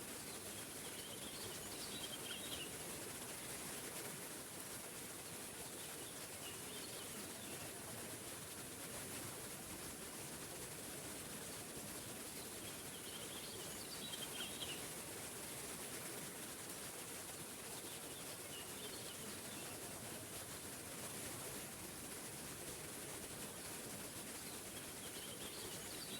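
Small forest waterfall with a steady rush of falling water. A bird repeatedly sings a short chirping phrase over it, about every five seconds.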